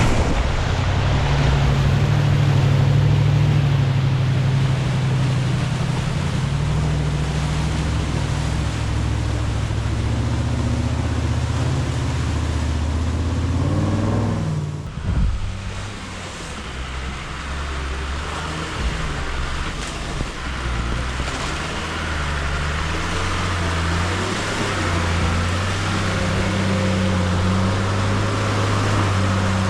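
Big off-road race trucks' engines running steadily over a broad rush of noise. The engine pitch rises about halfway through, then drops off suddenly and picks up again at a different pitch.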